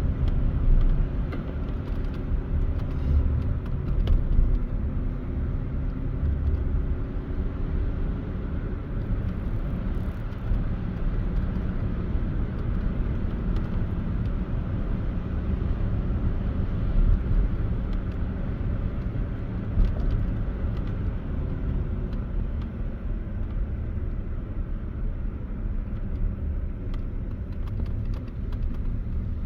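Steady road and engine noise heard inside a moving car's cabin: a low rumble of tyres and engine, with a faint engine drone that shifts in pitch during the first few seconds.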